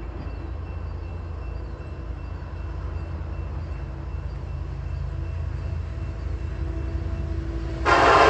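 Approaching EMD diesel locomotives on a unit coal train make a low rumble that slowly grows louder. Near the end a locomotive horn starts suddenly and is much louder than the rumble.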